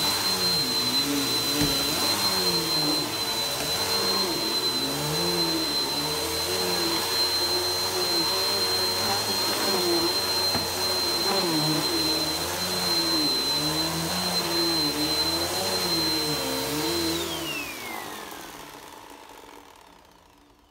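Vacuum cleaner running on a rug with a steady high whine, its lower tone wavering up and down about once a second. About 17 s in it is switched off, and the motor's whine falls in pitch as it spins down and fades away.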